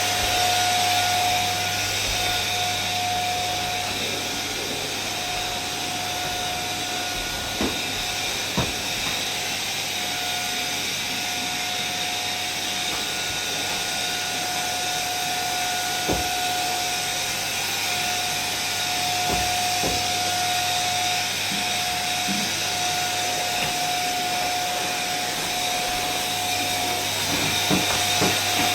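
Vacuum cleaner running steadily: an even rushing hiss with a constant motor whine, broken by a few faint knocks.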